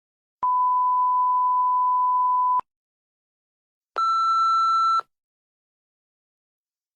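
Two electronic beep sound effects: a long, steady, pure beep of about two seconds, the kind used as a censor bleep, then after a silent pause a shorter, buzzier beep about a second long at a slightly higher pitch.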